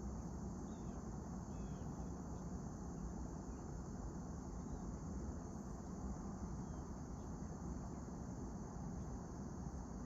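Early-autumn outdoor ambience: a steady high insect chorus, with a few faint, short bird chirps in the first two seconds, over a low, even rumble.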